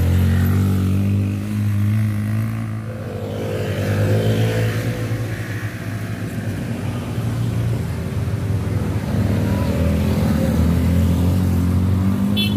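Motorcycle engine running hard under heavy throttle while climbing a steep hill, its note dipping and rising again a couple of times.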